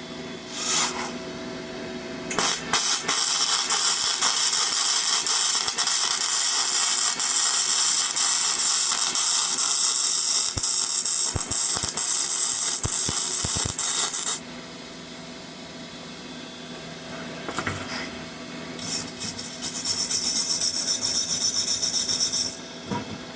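Flux-core arc welding with a Parkside PMSG 200 A1 welder: the arc gives a dense, crackling hiss for about twelve seconds, stops, then a second, shorter bead of about three seconds near the end. The current is, by the welder's own reckoning, a little too high for the thick wire in use.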